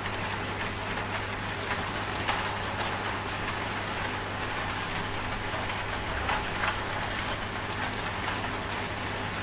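Steady rain with scattered sharp drop taps, over a low, steady hum from a washing machine.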